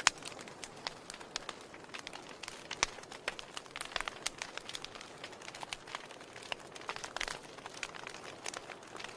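Wood fire crackling in a fireplace: irregular sharp pops and snaps over a soft hiss, with a loud pop right at the start.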